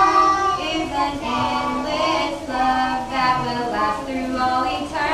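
Singing: a melody in long held notes that step from pitch to pitch, with children's voices in it.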